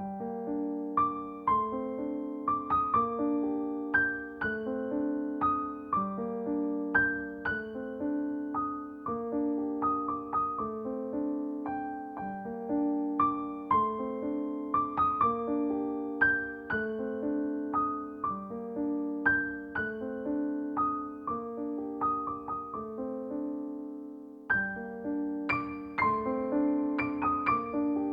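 Background piano music: a run of struck notes over held lower tones, starting suddenly, with a short break a few seconds before the end.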